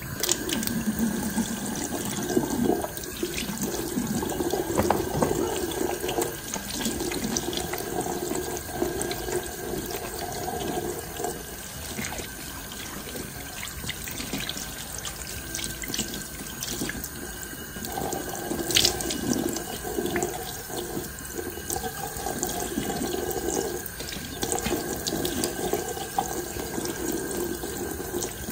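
Tap water turned on and running into a sink: a steady rush, with the splash shifting now and then. A sharp click about nineteen seconds in.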